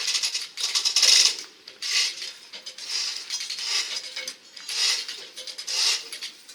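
Hand-worked metal ratchet mechanism clicking through repeated strokes, about one a second.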